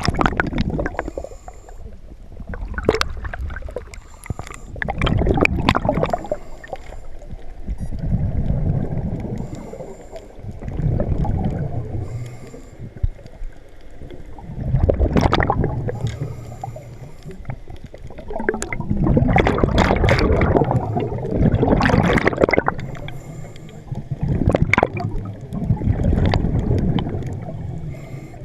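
Scuba breathing through a regulator underwater: each breath in hisses, and each breath out sends a gurgling rush of bubbles, in irregular swells every few seconds.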